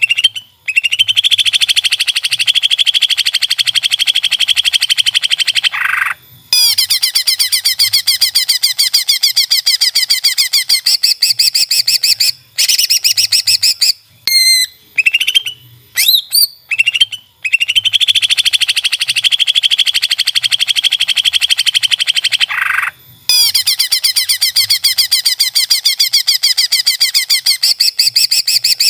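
Cucak ijo (green leafbird) song: long, very rapid high trills broken by short pauses, with a burst of varied whistled chirps midway. The same phrase sequence comes round twice, as a looped training recording.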